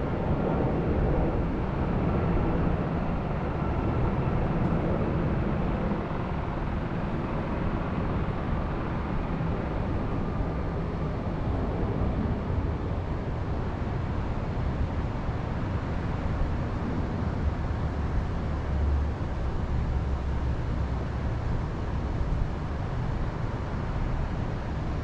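Steady low outdoor rumble with a fainter hiss above it, unchanging throughout.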